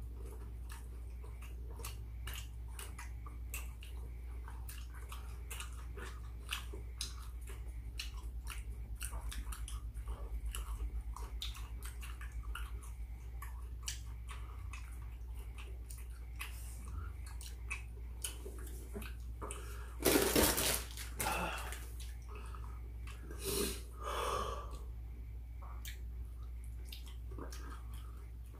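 Close-miked eating sounds: people chewing seasoned chicken and rice, with many small clicks of chopsticks against bowls over a steady low hum. Two louder bursts of noise come about two-thirds of the way through.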